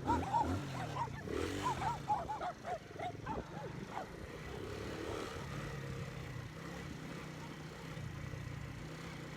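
A dog barking repeatedly for the first three and a half seconds, several barks a second, over a 125 cc single-cylinder Alpha motorcycle engine running steadily. After the barks stop, only the engine is heard.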